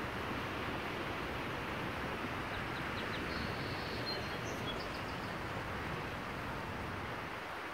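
Outdoor nature ambience: a steady rushing noise, with a few faint, short, high bird chirps about three to five seconds in.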